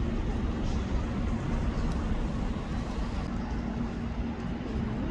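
Steady low rumble of a vehicle driving, with a faint steady hum.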